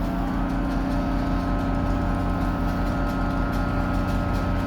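Train locomotive running steadily at the platform: a constant low hum with an even low pulse and a faint high whine, unchanging in pitch and loudness.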